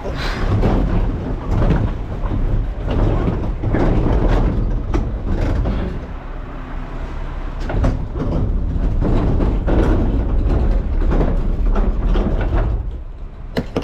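A garbage truck running with a low rumble, with frequent metal clanks, knocks and rattles from a container being handled. The sound eases off about six seconds in and again near the end.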